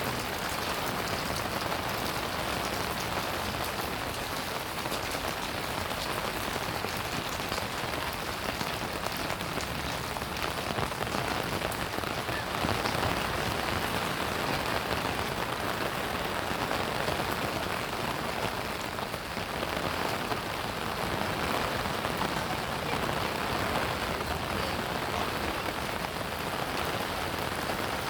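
Steady rain falling on surfaces, an even hiss of drops with no let-up.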